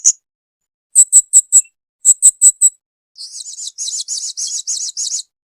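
Blue-crowned hanging parrot (serindit) calling: two quick runs of four sharp, very high chirps about a second apart, then a rapid chattering trill lasting about two seconds that stops shortly before the end.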